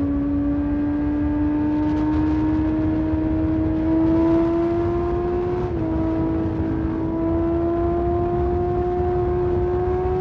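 Honda CBR600RR inline-four engine pulling steadily at high revs, its pitch climbing slowly with a brief dip a little over halfway through. Wind rush runs underneath.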